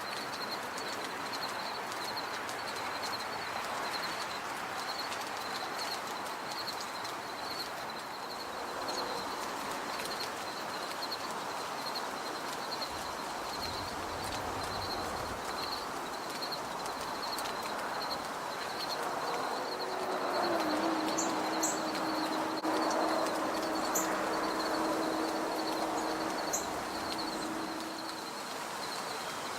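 Outdoor ambience with a high chirp repeating evenly and steadily throughout. A few short, very high call notes come in the latter part, and a steady low hum sets in about two-thirds of the way through.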